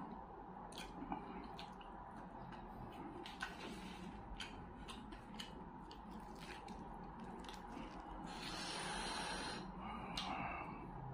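Close-up eating sounds: scattered wet mouth clicks and smacks while chewing fried fish and rice eaten by hand. About eight seconds in, a breathy hiss lasts about a second and a half.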